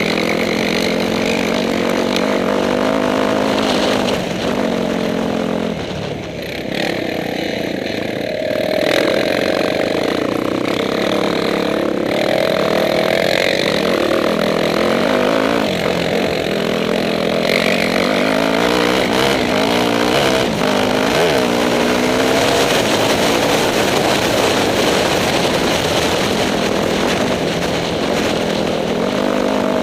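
Motorcycle engine running, its pitch rising and falling as the throttle opens and closes, with a brief drop in level about six seconds in.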